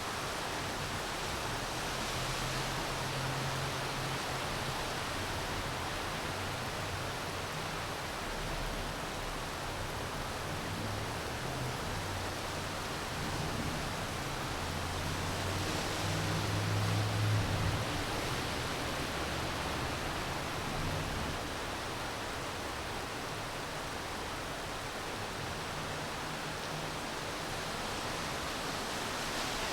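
Steady hiss of rain falling, an even wash of noise. A low rumble comes and goes underneath and is loudest a little past the middle.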